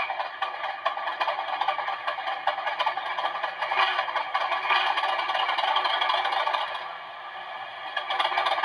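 OO gauge Class 37 sound decoder playing the English Electric diesel's cold-start effect through the model's small speaker: a rough, rattling, clattering run that keeps looping while the cold start function stays on. It eases briefly about seven seconds in, then picks up again.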